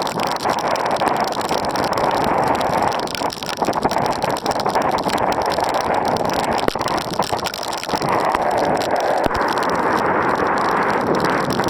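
Storm of heavy rain and wind, a steady loud hiss dense with many small sharp hits of water striking the boat.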